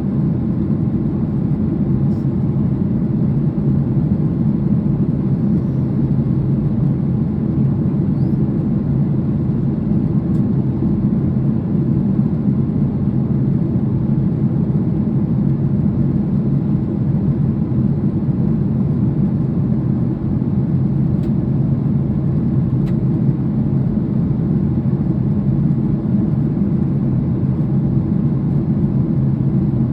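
Steady cabin noise of a Boeing 737 airliner in flight: the constant low rumble of the jet engines and the airflow over the fuselage, heard from inside the passenger cabin by a window seat.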